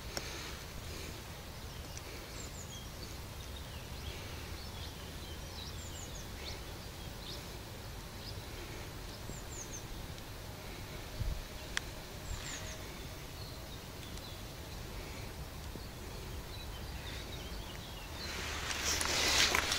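Small birds chirping in short, scattered calls over a steady outdoor background hiss. Near the end a louder rush of noise swells for about two seconds.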